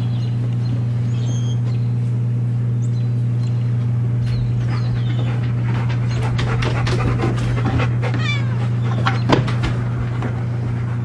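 A steady low hum, with a cat's short calls and clicks in the second half, including a quick falling run of chirps about eight seconds in.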